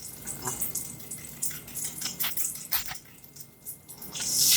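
Light clinks and taps, as of a spoon in a bowl of oatmeal, then a steady rush of running water swells up near the end.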